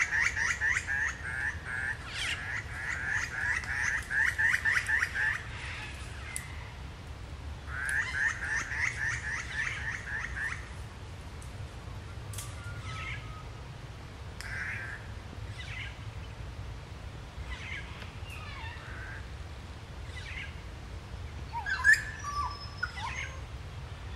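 Woodland birds calling. A fast run of repeated notes goes on for about five seconds, stops, and returns for about three more. Scattered short calls follow, with a louder burst of calls near the end.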